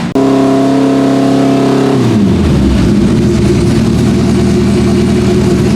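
Porsche 904 GTS's four-cylinder boxer race engine running loud, its note held steady, then falling about two seconds in and settling at a lower, steady pitch.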